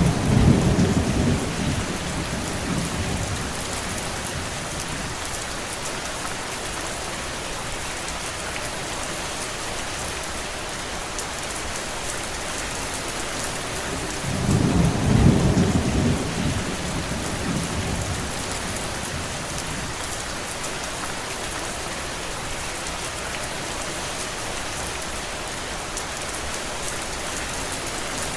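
Steady heavy rain, with a low rumble of distant thunder near the start and again about halfway through, each lasting a few seconds.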